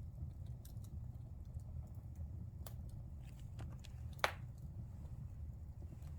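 Wood fire burning in a fireplace: a steady low rumble of flames with scattered small crackles, and one sharp, loud pop about four seconds in.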